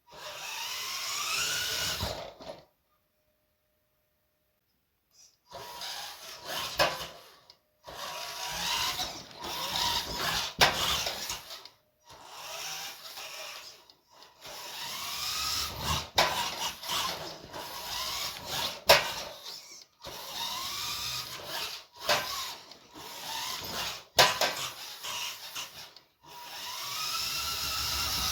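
Small electric motor whining in repeated bursts of one to three seconds, its pitch rising as it spins up at the start of each burst, with sharp clicks and knocks between the bursts.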